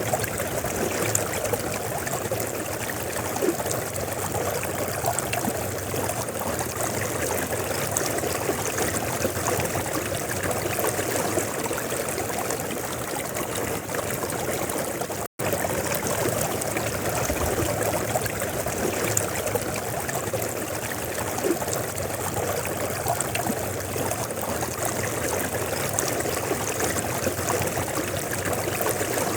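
A river flowing steadily, a constant rush of water that drops out for an instant about halfway through.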